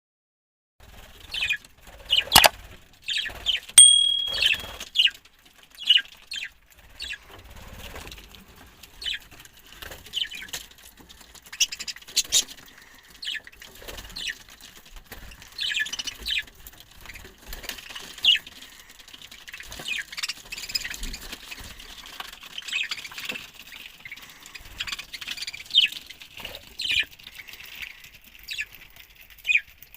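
A colony of budgerigars chirping and chattering in many short calls, with a brief whistled note about four seconds in and a sharp knock near the start.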